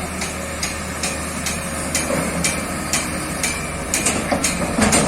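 Hitachi ZX excavator running: a steady diesel engine drone with sharp metallic knocks repeating about twice a second, and a louder clatter near the end.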